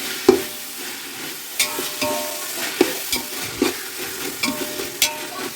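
A spoon or spatula stirring onion-tomato masala with fresh mint and coriander as it fries in a pan, with a steady sizzle and repeated scrapes and knocks against the pan about once a second.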